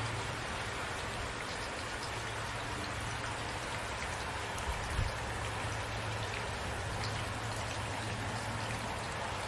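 Steady rain falling, an even hiss with scattered drops ticking, under a steady low hum; a brief low thump about halfway through.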